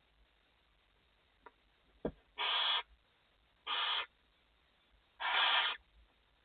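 Barn owls in the nest box giving three harsh, hissing calls, each about half a second long, the first about two and a half seconds in and the others about a second and a half apart. A short knock comes just before the first call.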